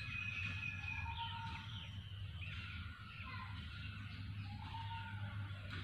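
Birds calling outdoors, several overlapping whistled calls and short glides, over a low steady hum.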